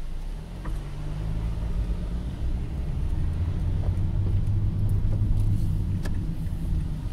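Car engine heard from inside the cabin as the car pulls away from a stop and turns, a low hum that grows louder through the middle and eases a little near the end.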